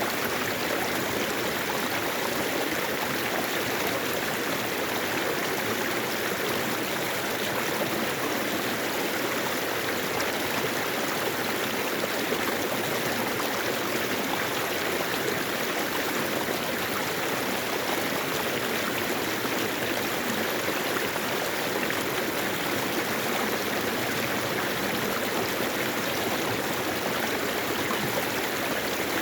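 Mountain valley stream flowing over rocks: a steady rush of running water with gurgling and trickling.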